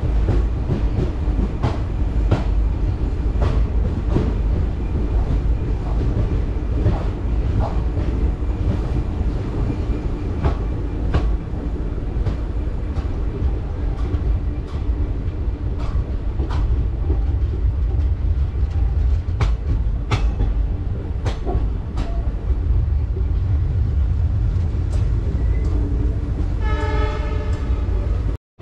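Passenger train running at speed: a steady rumble of wheels on rails with irregular clicks over the rail joints. Near the end a train horn sounds once, for about a second and a half.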